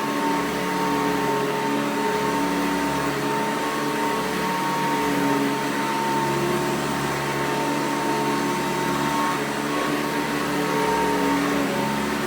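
1991 Hoover Encore upright vacuum cleaner running steadily on carpet: an even rush of air with a constant motor whine and hum.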